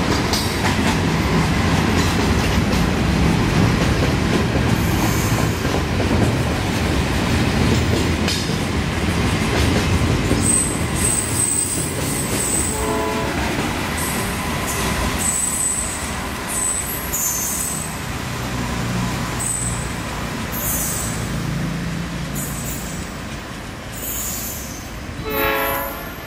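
Container freight train's flatcars rolling past, a steady rumble of wheels on the rails with high-pitched wheel squeals in the second half. Two short horn sounds come through, one about halfway and a louder one near the end as the last car goes by.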